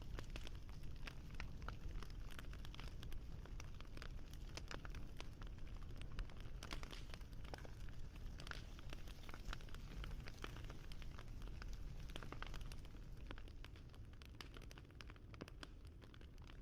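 Wood fire crackling: a dense scatter of small sharp pops and snaps over a steady low rumble, thinning a little near the end.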